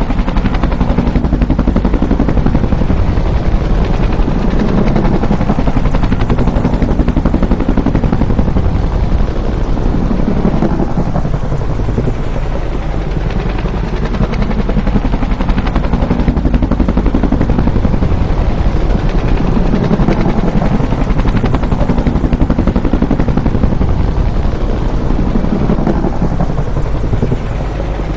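Bell UH-1 'Huey' helicopter in flight: the loud, rapid beating of its two-bladed main rotor over the turbine's noise, steady, with gentle swells and dips in level.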